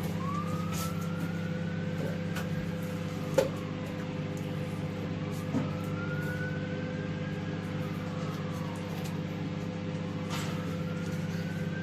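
Microwave oven running with a lava lamp inside, a steady hum, with two sharp clicks or pops about three and a half and five and a half seconds in. A faint wail slowly rises and falls behind it, like a distant siren.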